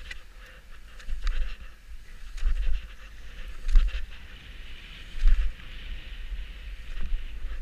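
Wind buffeting the microphone in uneven gusts, over a scraping hiss with scattered light clicks.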